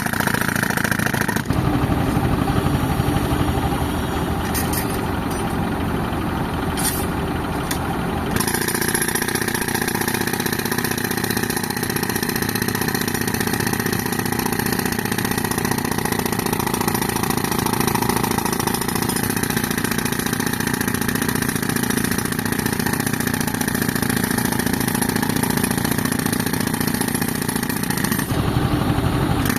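Tractor engine driving an air compressor runs steadily under the rattle of a pneumatic breaker working on a reinforced-concrete beam. The mix changes about a second and a half in, again around eight seconds, and once more near the end.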